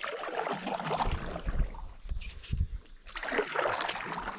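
Water splashing around a kayak, with a few low knocks and thumps from handling in the boat.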